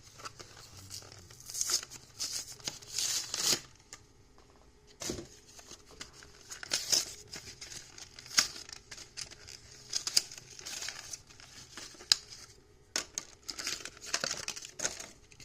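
Plastic blister packaging of a carded diecast toy car crinkling and tearing as it is pried open, in irregular rustles with sharp crackles.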